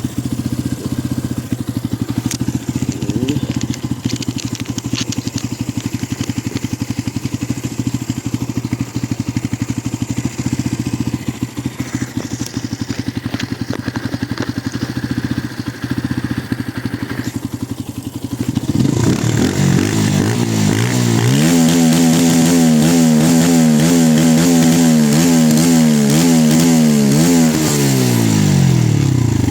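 Benelli 125S motorcycle engine running through its stock exhaust: idling steadily, then revved up about two-thirds of the way in and held at high revs for several seconds with the pitch wavering up and down, before the revs fall back toward idle near the end.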